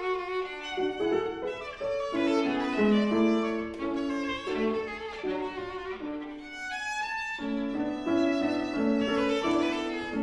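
Viola playing a melody of quickly changing notes.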